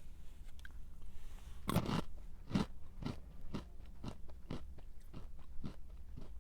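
A person bites into a crunchy snack, a loud crisp crack a little under two seconds in, then chews it with regular crunches about twice a second.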